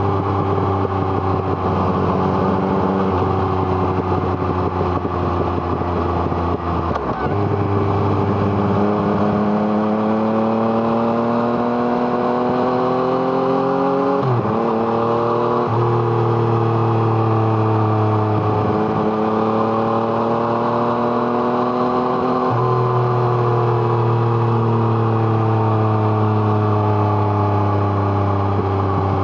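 Yamaha MT-09's 847 cc inline three-cylinder engine through an Arrow Thunder exhaust, pulling under way. Its note climbs and sinks steadily with throttle and road speed, broken by a few sharp brief dips in pitch.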